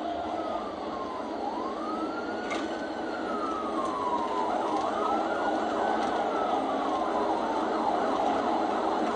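Police car siren in a slow wail, rising and falling about every three seconds, over steady road noise.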